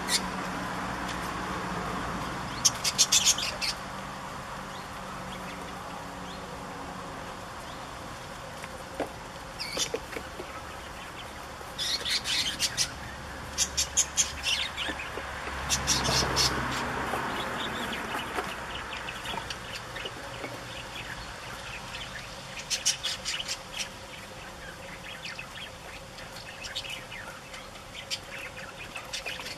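Short bursts of rapid, high-pitched bird chirping, several times, over a steady low outdoor rumble that swells briefly about halfway through.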